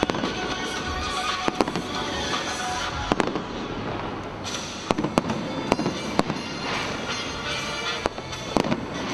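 Aerial fireworks display: shells bursting overhead in sharp, irregular bangs, with a quick cluster of bangs in the middle and a couple more near the end, over music playing along.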